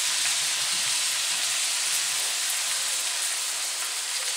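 Crab legs frying in melted butter in a wide aluminium pan, a steady sizzle.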